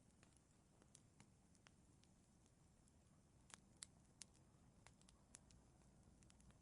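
Faint crackling of a fireplace fire: scattered small pops and snaps, a few sharper ones in the middle, over a low steady hiss.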